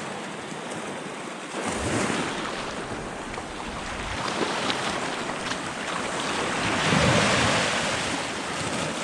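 Sea waves washing onto the shore, the surf swelling twice (about two seconds in and more loudly around seven seconds), with wind buffeting the microphone.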